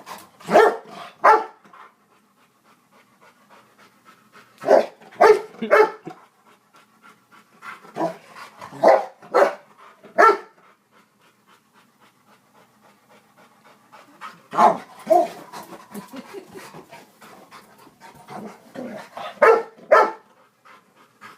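Dog barking in short bursts of three or four barks, several times over, with faint panting between the bursts, as it chases a dropped padlock in play.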